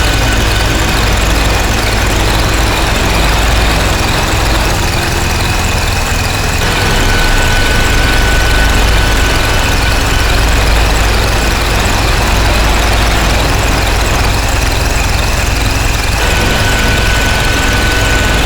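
Harsh noise drone from DIY noise synthesizers run through distortion pedals: a dense, loud wall of distorted noise over a heavy low rumble. A thin high whistle drops out about a second in, returns about six and a half seconds in, cuts out again near ten seconds, and comes back near the end, as the texture of the noise shifts.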